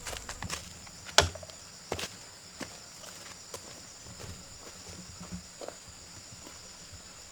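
Scattered light knocks and taps, the sharpest about a second in, over a steady high insect drone.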